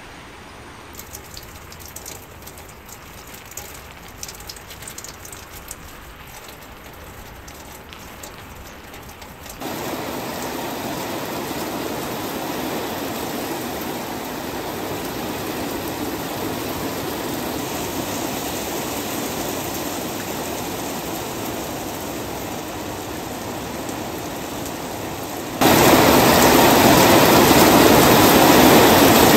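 Steady rain falling. It is faint with scattered drips at first, steps up in level about ten seconds in, and near the end becomes heavy rain splashing on pavement and puddles, clearly louder.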